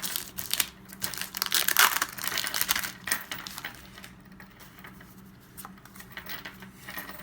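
Foil Pokémon card booster pack wrappers crinkling and tearing, densest in the first three seconds, then giving way to quieter scattered rustles and clicks.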